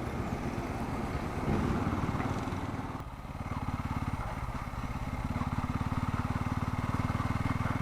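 Bajaj Pulsar N250's single-cylinder engine running as the bike rides along, with wind and road noise. About three seconds in, the wind noise drops and the engine's steady, even pulsing beat comes forward.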